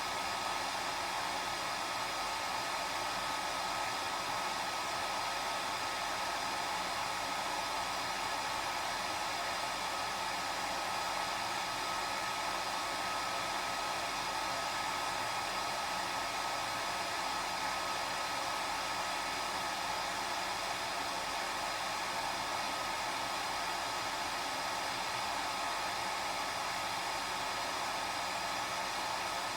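Hair dryer running steadily: an even rush of air with a faint constant high whine from its motor.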